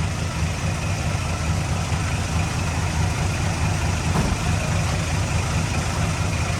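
Heavy diesel earthmoving equipment running steadily with a deep engine note, and a light knock about four seconds in.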